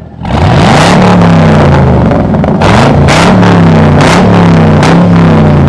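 Car engine revving very loud at full throttle during a brake-held burnout, its pitch climbing and dropping back several times, with sharp bursts of high noise at the peaks.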